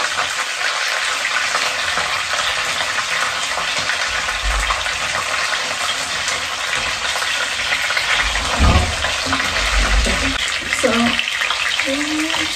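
Battered fish fillets shallow-frying in hot oil in a frying pan, a steady sizzle, while a fork prods them in the pan. A few dull bumps come about two-thirds of the way through.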